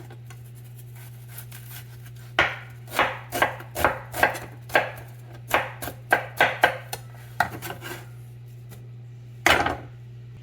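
A kitchen knife chopping vegetables on a cutting board: a run of about a dozen irregular chops, roughly two a second, starting a couple of seconds in, then one last loud chop near the end, over a steady low hum.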